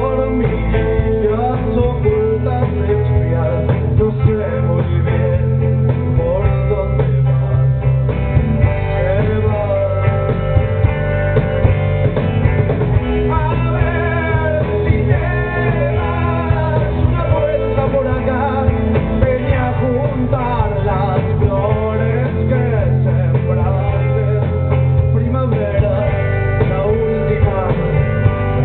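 Live rock band playing, with guitars over a steady low end and a voice singing through the middle of the stretch. The recording is dull, with nothing above the upper midrange.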